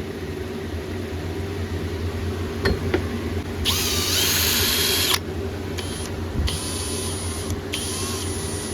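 Power drill run in short bursts, with one longer, louder high-speed whir about four seconds in, preceded by two sharp clicks.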